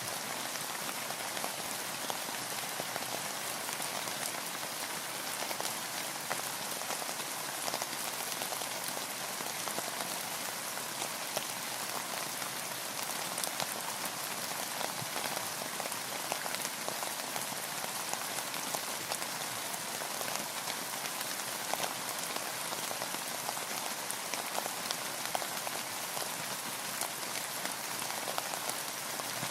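Steady rain heard from a boat: an even hiss with many small drop ticks, holding constant throughout.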